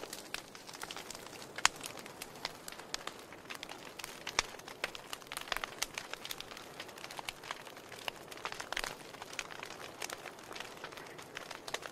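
Wood fire crackling: irregular sharp pops and snaps from burning logs over a soft steady hiss, with a louder pop about one and a half seconds in.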